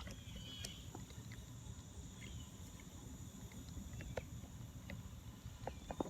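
Faint outdoor ambience: a low wind rumble, a steady high insect drone, and scattered small clicks and ticks, with a few short chirps in the first second.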